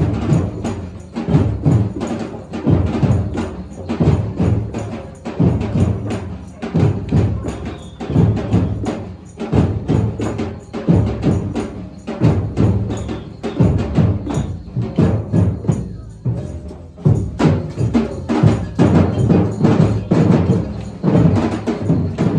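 Live percussion music, with drums struck in a steady repeating beat.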